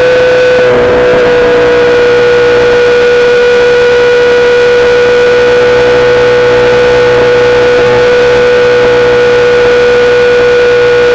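2008 Yamaha R6's inline-four engine through a full SC-Project exhaust, running at a steady engine speed and holding one even pitch. There is a brief wobble in the sound about a second in.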